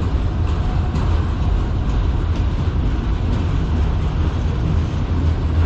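Freight cars of a CN manifest train rolling past: a steady low rumble with faint clicks now and then from the wheels on the rails.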